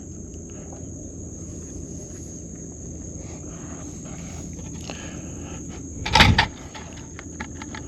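Steady high-pitched drone of crickets, with faint scattered clicks and one short, loud bump about six seconds in.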